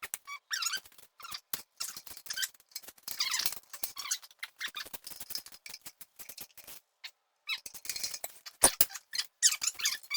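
Hand tools working bolts loose on a Ford 351 Windsor V8: scratchy, squeaky metal-on-metal sounds of a stubborn bolt being turned out, broken by short gaps, with a sharp metal knock about 8.5 seconds in.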